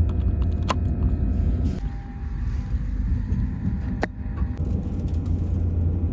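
Steady low rumble of a moving high-speed train, with two sharp clicks, about one second in and about four seconds in.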